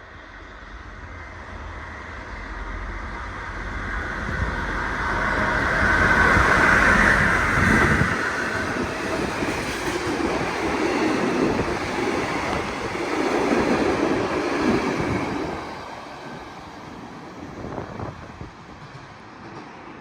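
Train carrying nuclear material passing: it builds up from the start and is loudest about six to eight seconds in with a deep rumble, then its wagons roll by until it drops away after about sixteen seconds.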